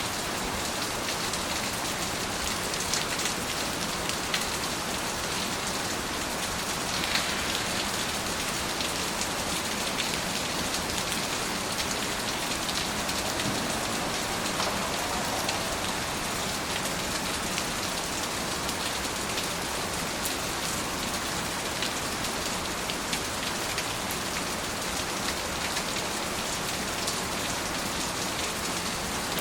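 Steady rain falling with an even hiss, and many individual drops ticking on a surface.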